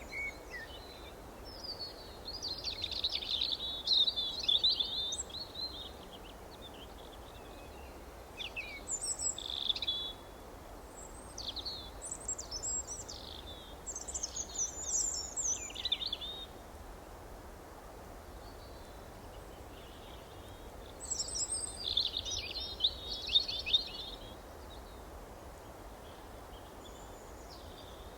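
Songbirds chirping and trilling in bursts of rapid high notes, with pauses of a few seconds between phrases, over a faint steady background hiss.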